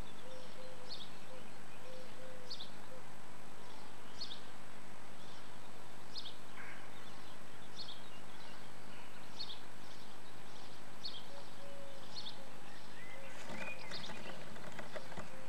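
A bird chirping over and over, one short high note about every second. Near the end come scratching and rustling as the swifts shift about on the nest material in the box.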